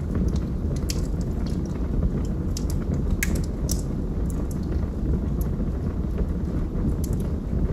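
Wood fire burning in a fireplace: a steady low rumble with scattered sharp crackles and pops, one louder snap about three seconds in.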